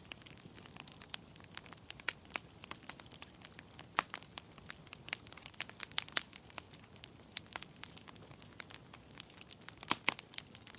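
Wood logs burning in a fireplace: irregular sharp crackles and pops over a faint steady hiss, with a few louder pops about four seconds and ten seconds in.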